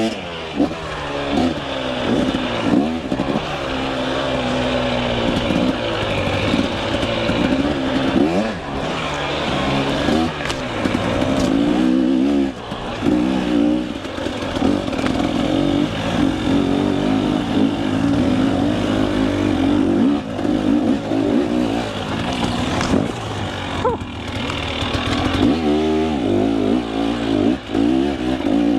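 KTM 300 EXC two-stroke enduro motorcycle engine revving up and down continually while riding a rough trail, its pitch rising and falling every second or two.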